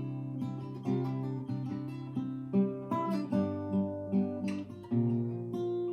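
Acoustic guitar playing a fingerpicked introduction, plucked notes ringing over a changing bass line.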